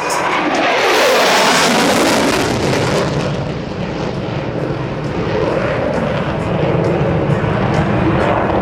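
Jet noise from an F-15E Strike Eagle's twin Pratt & Whitney F100 afterburning turbofans as it flies past. It is loudest with a sharp hiss about a second in, eases after about three seconds, then swells again near the end.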